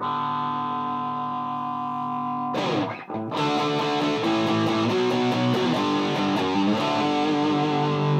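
Gibson Les Paul played through a Mesa Boogie Dual Rectifier set to tube rectification, into a Marshall 1960A 4x12 cabinet: distorted electric guitar. A chord rings for about two and a half seconds, then after a brief stop comes a riff of picked notes.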